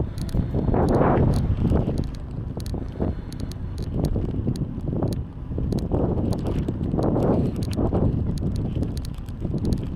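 Wind buffeting the microphone on a moving bicycle, swelling and easing every second or two, with scattered light clicks and rattles from the ride.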